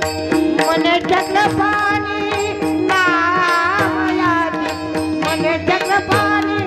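Devotional bhajan music: a voice singing a wordless, ornamented melodic run over a held drone note, with tabla and small hand cymbals keeping a steady beat.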